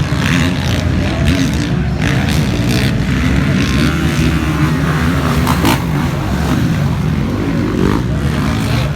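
Motocross bikes' engines running on the race track, a loud, steady mass of engine sound.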